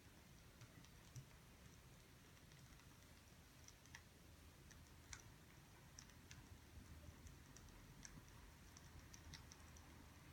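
Faint, sparse crackles and pops of burning firewood, irregular single sharp clicks a few seconds apart, over quiet room tone.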